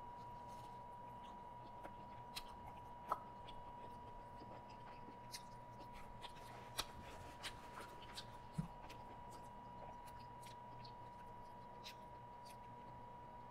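Faint chewing with scattered small mouth clicks and smacks, the sharpest about three seconds in, over a faint steady high-pitched tone.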